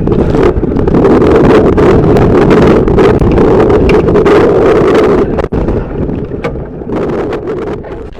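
Strong wind buffeting the microphone on a sailboat in heavy sea: a loud, steady rushing roar that eases off over the last few seconds.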